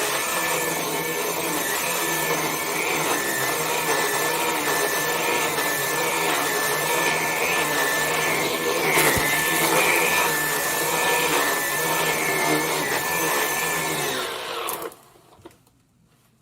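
Vax Blade 4 cordless stick vacuum cleaner running on a rug, a steady motor noise with a high whine that swells and eases in a regular rhythm as it is pushed to and fro, picking up spilt flour. It switches off near the end.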